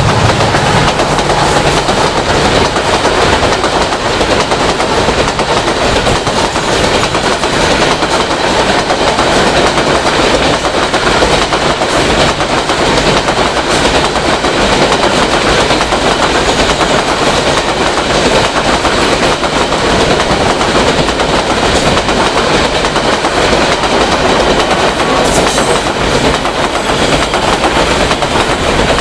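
Freight train wagons rolling past at speed, with a steady loud clatter of steel wheels on the rails.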